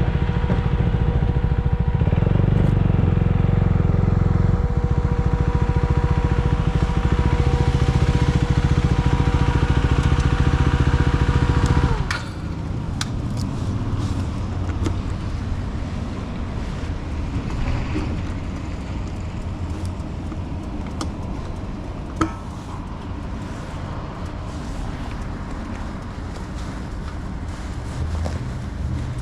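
Motorcycle engine running steadily with a constant whine, then stopping abruptly about twelve seconds in. A quieter outdoor background and a single sharp click follow.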